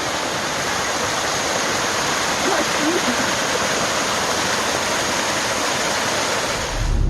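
Waterfall pouring: a steady, even rush of falling water that cuts off suddenly just before the end.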